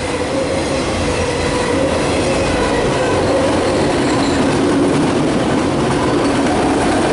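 CSX autorack freight train rolling past, a steady, continuous rumble of steel wheels on rail with faint steady tones above it.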